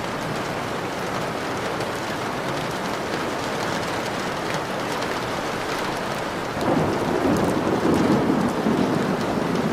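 Steady rain, joined about two-thirds of the way through by a low rumble of thunder that carries on to the end.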